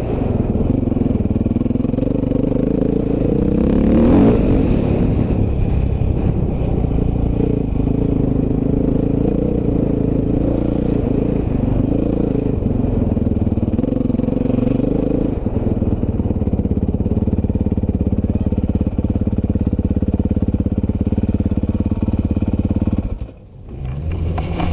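Dirt bike engine running under throttle, its pitch rising and falling as the rider opens and closes the throttle, with one louder surge about four seconds in. The sound drops out briefly near the end, then resumes.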